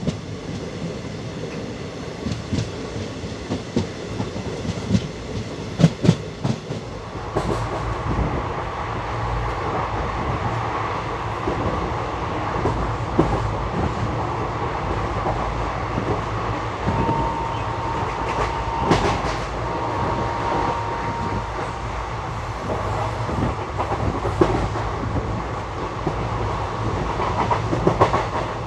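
Passenger express train running at speed, heard from on board: wheels clicking over rail joints, then from about seven seconds in a louder, steady rushing rumble.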